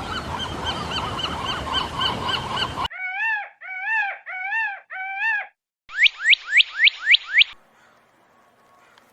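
A sequence of animal calls. First a dense flock chorus of many overlapping calls. Then four separate rising-and-falling calls, and then a rapid run of six sharply falling chirps.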